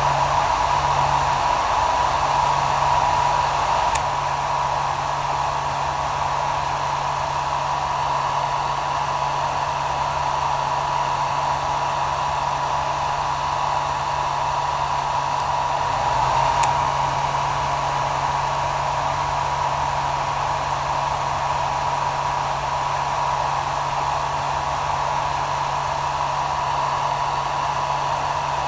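Hair dryer running steadily: a continuous airy rush with a steady whine and a low motor hum, becoming slightly quieter about four seconds in.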